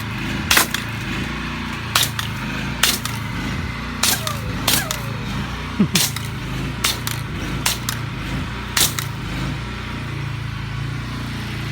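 High-pressure washer running steadily, its tipless wand fired in a series of about ten short, sharp blasts of water roughly a second apart, aimed at a beehive.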